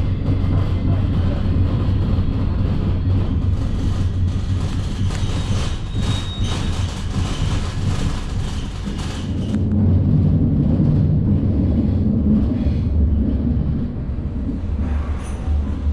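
Loco-hauled Trenitalia Intercity train running on the rails: a steady low rumble with rail noise, the higher hiss dying down about ten seconds in.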